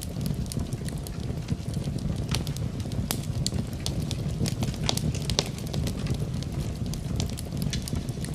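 Wood fire burning in a fireplace: a steady low rumble of the flames with frequent irregular crackles and pops from the logs.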